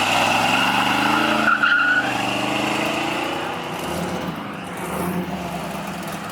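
Car accelerating away hard, its engine pitch rising for about three seconds with a brief tire squeal partway through, then easing off and fading.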